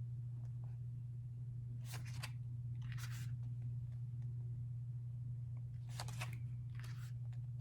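Glossy pages of an album photobook being turned, four brief paper swishes spaced about a second or more apart, over a steady low hum.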